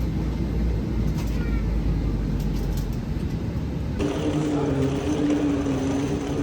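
Steady low rumble of a vehicle in motion. About four seconds in the sound changes abruptly to a similar rumble with a steady droning hum over it.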